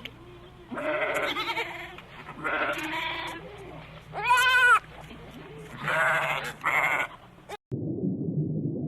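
A sheep or goat bleating, about six calls in a row, the loudest and most sustained one about halfway through. Near the end it cuts off suddenly to a low, steady rushing sound.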